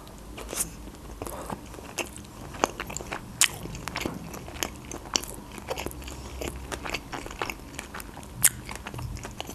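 Chewing a mouthful of sushi roll: irregular sharp crunchy clicks from the mouth, the loudest about three and a half seconds in and again near the end.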